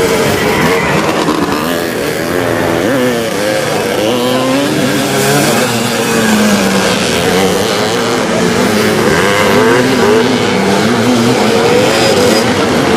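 Several vintage twin-shock motocross motorcycles racing, their engines revving up and falling back over one another without a break.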